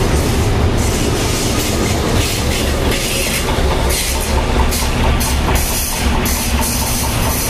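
Norfolk Southern diesel locomotive and a string of flatcars loaded with concrete ties rolling past close by. The engine gives a steady low rumble, and the wheels click over the rail joints.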